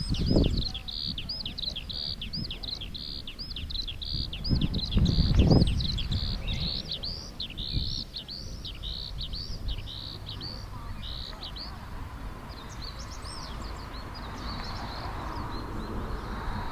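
A small bird singing a long run of quick, high chirping notes, about three a second, that grows faint after about eleven seconds. Two low rumbles, about half a second in and around five seconds in, are the loudest sounds.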